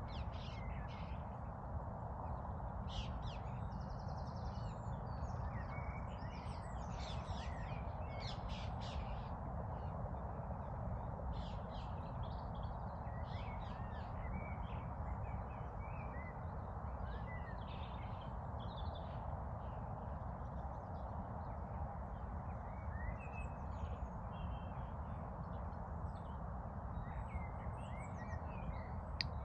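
Birds chirping and calling many times, short high calls scattered throughout, over a steady low background rush.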